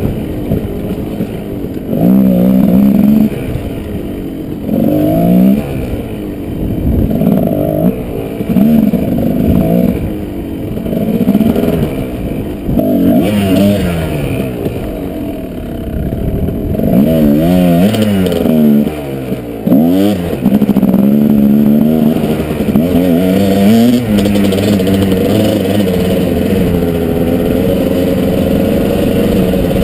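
Kawasaki KDX220 two-stroke single-cylinder dirt bike engine under way, revving up and dropping back again and again with throttle and gear changes, then holding a steadier pitch over the last few seconds.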